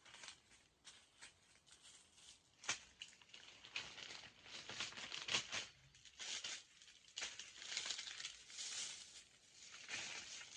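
Plastic snack wrappers crinkling and rustling as they are handled, in irregular short crackles with a sharp click about a third of the way in.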